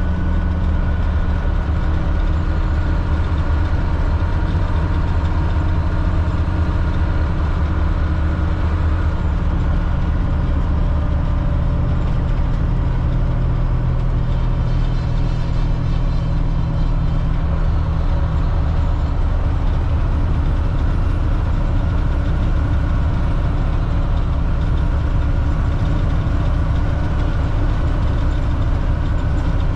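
Cat C7 diesel engine of a front-engine Blue Bird All American bus running steadily, its pitch shifting slightly a couple of times as engine speed changes.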